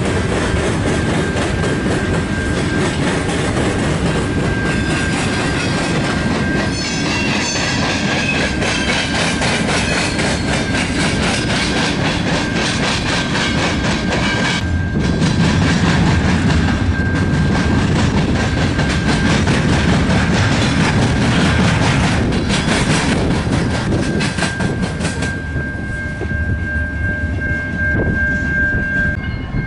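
Freight train passing close by: its GE C44-9W and EMD SD60 diesel locomotives run past, then the freight cars roll by with wheel clickety-clack on the rail joints. A grade-crossing warning bell rings steadily, clearest near the end.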